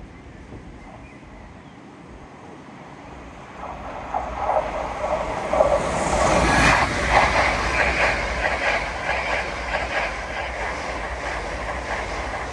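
LNER Azuma (Hitachi Class 800-series) express train passing through the station at speed. The train noise swells about three and a half seconds in, peaks around halfway, and the wheels clatter over the rail joints.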